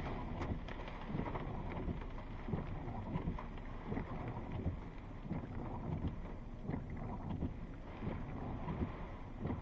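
Thunderstorm wind and rain, a steady dense rush with irregular gusts buffeting the microphone.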